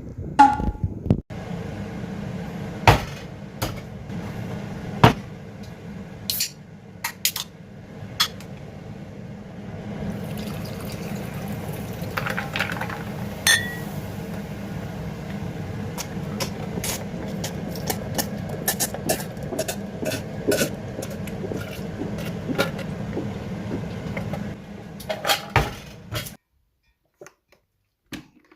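Mountain stream water running steadily, with many sharp clicks and knocks scattered through it. The sound cuts off suddenly near the end.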